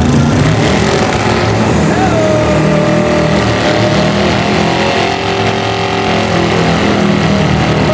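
Burnout car's engine held at high revs, loud and steady, with the hiss of spinning tyres.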